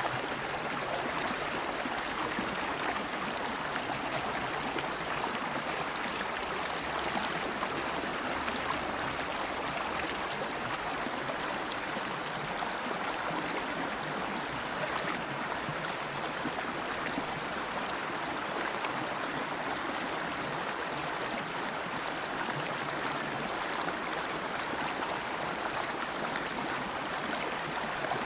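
River water flowing over rocks: a steady, even rush of moving water with no breaks.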